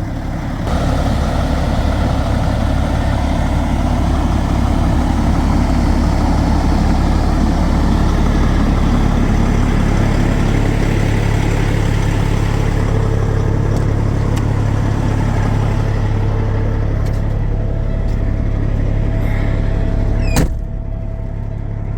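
Peterbilt semi truck's diesel engine running under load during a drive: a loud, steady low rumble that comes up about a second in and holds. Near the end the rumble drops off suddenly at a sharp click.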